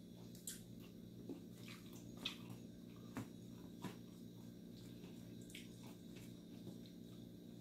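Person chewing rice and sautéed sardines, with faint, scattered wet mouth clicks and smacks over a steady low hum.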